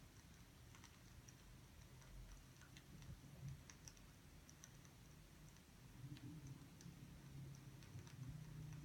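Very quiet room with faint, scattered clicks and ticks, over a low hum that grows a little louder near the end.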